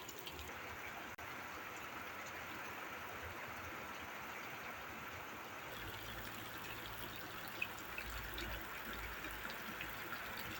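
Steady trickle of running water. A low rumble joins about halfway through, and there is a single sharp tick shortly after.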